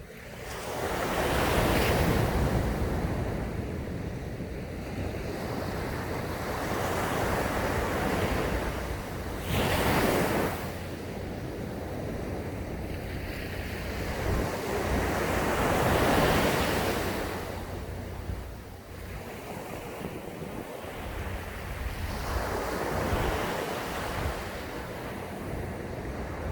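Sea waves breaking and washing up a sandy beach, the surf swelling and fading with four breakers, roughly every six to seven seconds.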